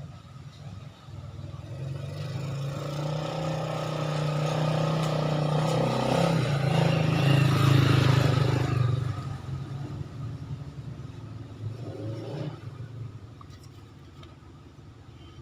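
Motorcycle engine running, growing louder over about eight seconds and then dropping away quickly, with a smaller swell a few seconds later.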